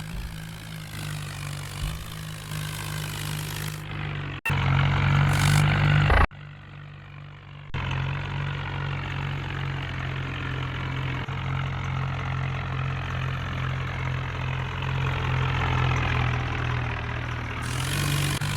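Powertrac tractor's diesel engine running steadily at a low, even speed. The sound cuts abruptly about four and six seconds in, is quieter for a second or so, then picks up again at the same steady running.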